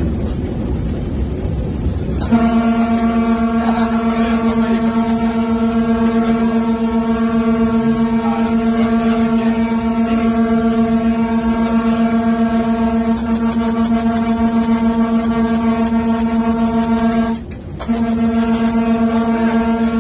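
A low, steady horn blares without a break for about fifteen seconds, stops for half a second near the end, then sounds again. Before it starts there are a couple of seconds of loud rumbling noise.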